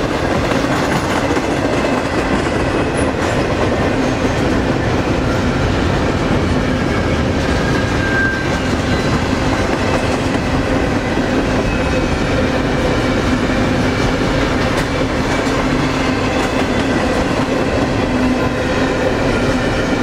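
Double-stack container train's loaded well cars rolling past, steel wheels on the rails making a loud steady rumble with a faint steady whine over it.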